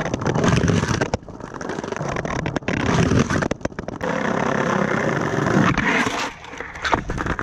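Skateboard rolling on rough pavement: a loud, continuous wheel rumble broken by clicks and knocks, easing briefly twice.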